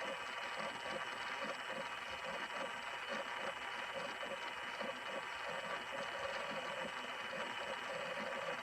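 Toy washing machine's small battery motor spinning its drum: a steady whirring with a quick, even rattle of plastic gears.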